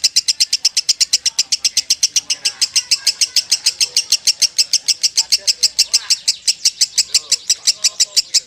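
Lovebird chattering ('ngekek') in one long unbroken run of sharp, high chirps at about eight a second, the nonstop style that Indonesian fanciers call 'konslet'.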